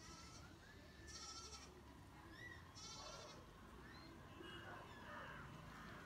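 Birds calling faintly: two short, quavering high trills, about a second in and about three seconds in, with thin whistled notes between them and more chirps near the end.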